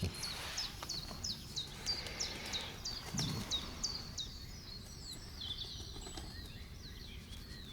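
A small bird singing a long run of short, high, repeated notes, about three a second, over a steady low outdoor background noise.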